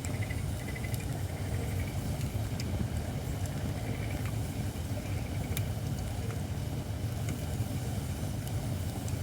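Wood fire of Japanese white oak (shirakashi) logs burning, with scattered sharp crackles and pops over a steady low rumble. The wood is not yet fully seasoned.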